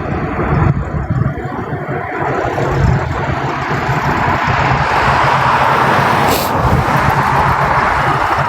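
A car driving: steady road and engine noise, with a low hum under it.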